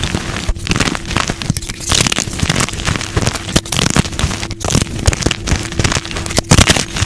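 Blocks of dyed gym chalk being crushed by hand: a dense, steady run of crunches and sharp snaps.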